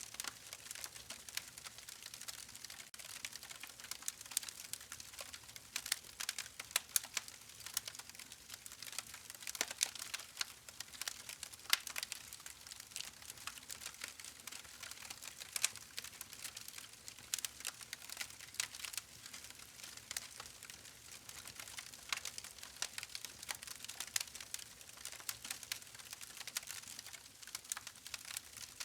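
Campfire burning, wood crackling and popping in irregular sharp snaps over a steady soft hiss of the flames.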